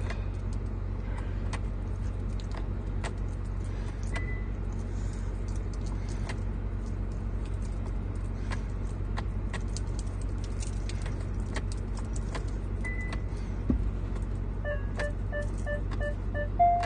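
Hyundai Kona reversing, heard inside the car: a steady low hum with scattered light clicks and jingles. Near the end the reversing sensor beeps about four times a second, then gives one longer tone.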